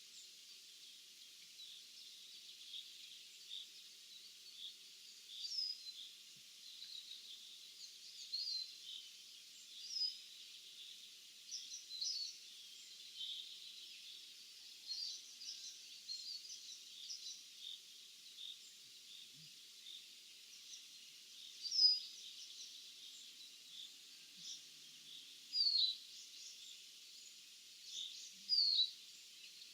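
Several small birds chirping and singing, short high notes and quick sweeping calls coming every second or so, over a faint steady hiss.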